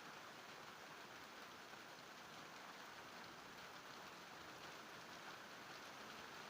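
Faint, steady rain falling, a fine even hiss with scattered drop ticks.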